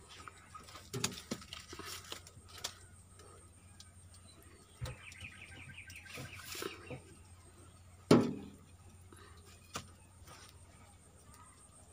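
A bird chirping a quick run of repeated high notes for about two seconds near the middle, among scattered knocks. A loud single thump about eight seconds in is the loudest sound.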